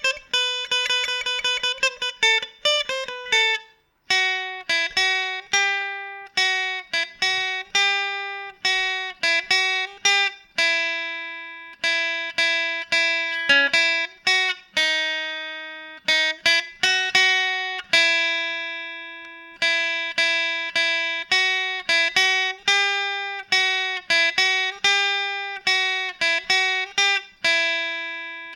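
Solo guitar played live, plucked note by note. A quick run of notes comes first, then a brief pause about four seconds in, then a slower melody of single notes, each left to ring out and fade.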